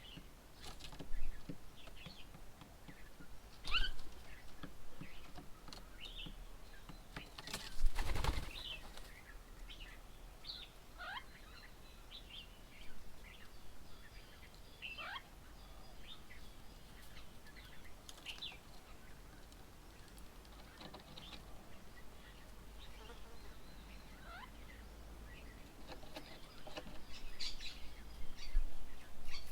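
Wild birds calling around a bird table: scattered short chirps and whistles, some sliding down in pitch, with a brief louder noise about eight seconds in and a busier spell of chirping near the end.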